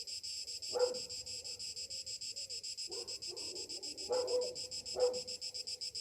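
Summer cicadas droning in a steady, rapidly pulsing chorus. A dog barks several times over it, once about a second in and then in a cluster past the middle.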